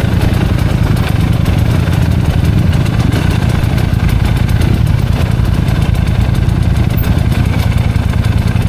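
Enduro dirt-bike engine running steadily at idle, with no revving.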